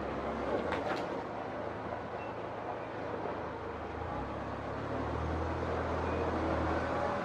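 Steady low hum of a small inboard diesel engine running, likely the yacht's Perkins Perama 18hp, swelling slightly about five seconds in, with a couple of light clicks near the start.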